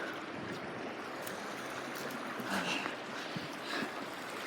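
Small creek flowing steadily, with a few brief gurgles partway through.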